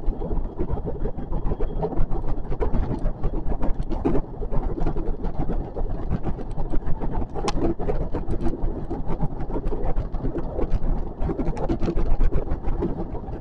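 JR West 521-series electric train running along the line, heard from on board as a steady rumble with irregular clicks and clatter from the wheels on the rails.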